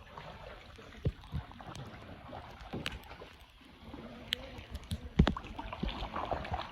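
Kayak paddling: paddle blades dipping and pulling through the water with splashing, and a few short sharp knocks scattered among the strokes.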